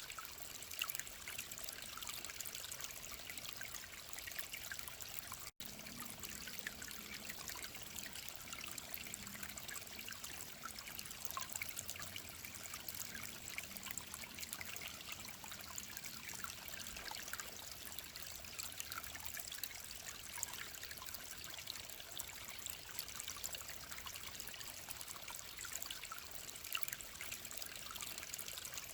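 A mountain stream trickling and splashing steadily over rocks. There is a momentary dropout about five and a half seconds in.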